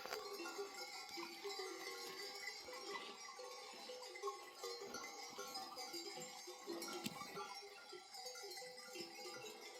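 Bells worn by a flock of sheep clanking irregularly, many small bells sounding at once and overlapping as the animals move.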